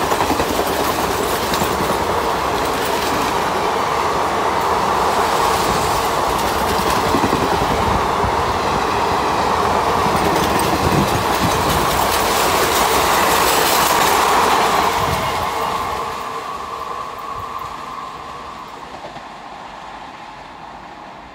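Passenger train coaches running past on the rails: a loud, steady rush of wheels on track with fine clicking. It fades over the last several seconds as the end of the train goes by.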